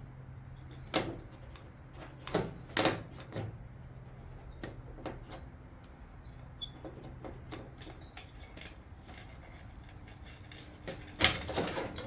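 Scattered metallic clicks and knocks of hand tools and parts being handled in the engine bay, with a louder clatter near the end.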